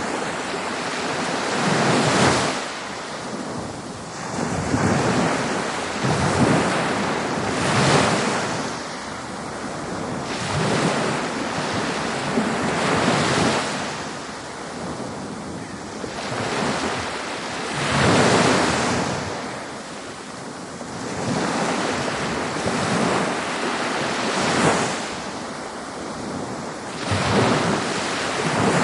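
Ocean waves breaking on a beach, one surge of surf every few seconds over a continuous wash of water, with some wind.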